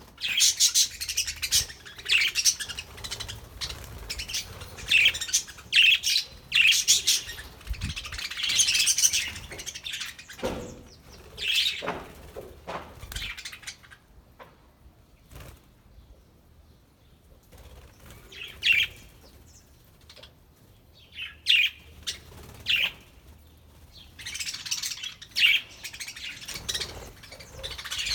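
A flock of budgerigars chirping and chattering in irregular bursts, with flapping wings, going quieter for a few seconds midway.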